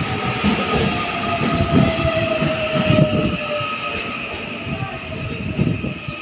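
Three-car electric multiple unit (CAF AM class) pulling into the station, its traction motors giving a slowly falling whine as it slows, over a low rumble from the wheels on the rails.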